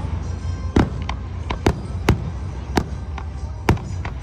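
Fireworks display: aerial shells bursting, with several sharp bangs at uneven intervals, roughly one a second, over a steady low rumble.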